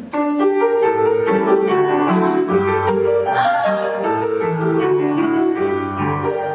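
Piano playing a lively tune of short, clearly struck notes: accompaniment for a folk-dance barre exercise.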